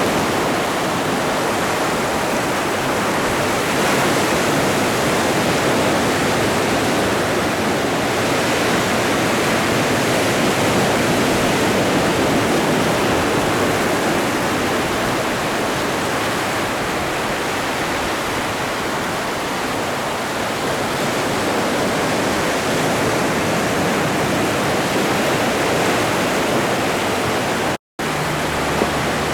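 Ocean surf: a steady, dense rush of breaking waves with no separate wave crashes standing out. Near the end the sound cuts out completely for a split second, then returns.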